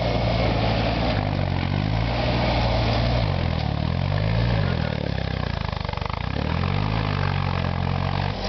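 SAME Tiger 60 4x4 tractor's diesel engine running, its pitch dipping and rising a few times as the engine speed changes.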